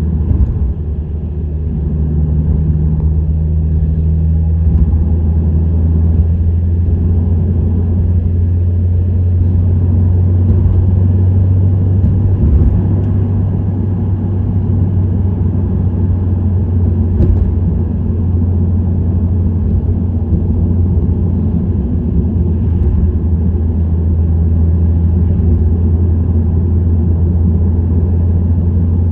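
Subaru WRX STI (VAB) with an STI Performance muffler cruising steadily: a constant low exhaust drone from its turbocharged 2.0-litre flat-four over tyre and road noise, with a brief higher hum about two seconds in.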